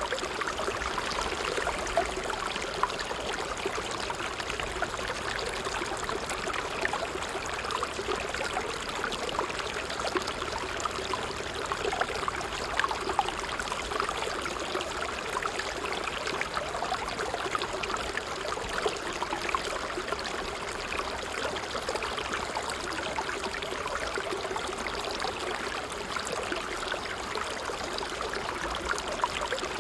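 Water trickling and splashing steadily in a small stream, a continuous bubbling patter with many small droplet splashes.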